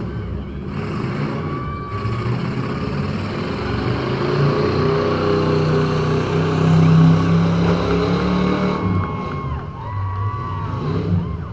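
Demolition derby car engines running, heard from inside a derby car; the engine sound grows louder around the middle and eases off near the end.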